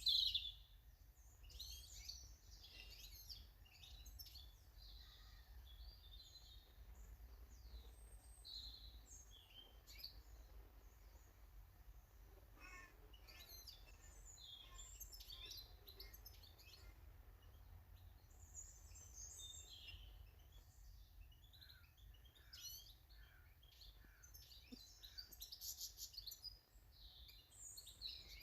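Faint chirping and twittering of small garden birds, many short calls overlapping, over a steady low background rumble.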